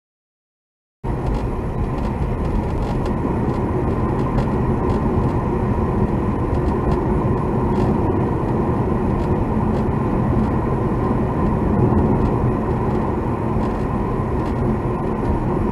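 Car cabin noise while driving: steady engine and road noise with steady tones running through it, recorded to capture an abnormal noise from the car. The sound cuts in abruptly about a second in after total silence.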